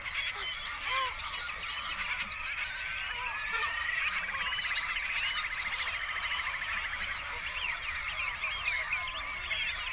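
A dense chorus of many birds calling at once: overlapping chirps and short whistled notes, with a long buzzy trill in the middle.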